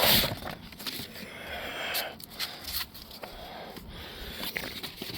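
Wet sandpaper rubbing over a car's paintwork by hand in repeated back-and-forth strokes, a soft scraping hiss that swells and fades with each stroke; this is the fine 2500-grit stage of wet sanding out scratches.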